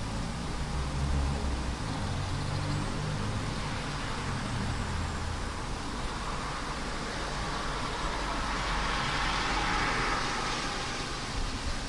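Road traffic on a wet road: a low engine rumble in the first couple of seconds, then tyre hiss that swells and fades between about eight and eleven seconds in, over a steady hiss of rain.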